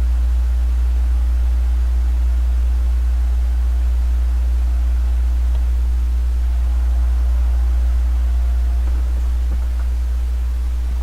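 Steady low hum with a faint hiss and a few faint constant tones above it, with a few light ticks near the end.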